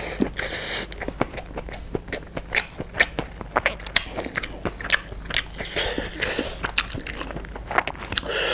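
Close-miked mouth sounds of a man chewing a handful of chicken biryani: irregular wet smacks and clicks, several a second.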